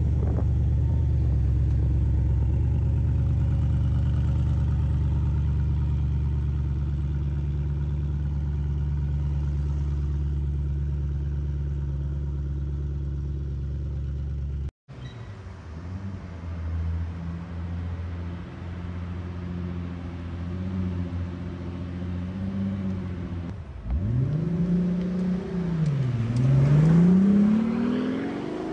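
Koenigsegg Regera's twin-turbo V8 running steadily as the car moves off at low speed. After a cut, a Pagani Utopia's V12 runs more quietly, then is revved up and down several times near the end.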